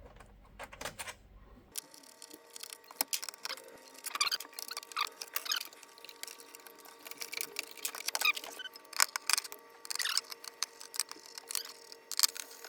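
Irregular small clicks, taps and scrapes of hands working on a PS5's plastic casing and parts, with a few short squeaks, over a faint steady hum.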